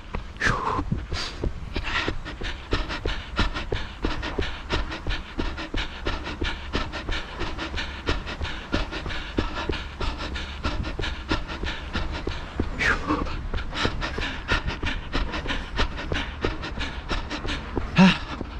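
A runner's hard, rhythmic breathing over a quick, even run of footfalls.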